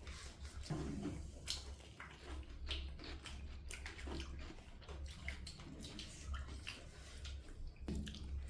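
Wet, irregular eating sounds: chewing, smacking and slurping of food, with many short clicks spread unevenly through.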